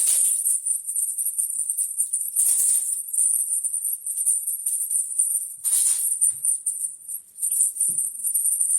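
Small bells on a cat toy jingling continuously as the toy is shaken and batted about, with louder shakes about two and a half and six seconds in.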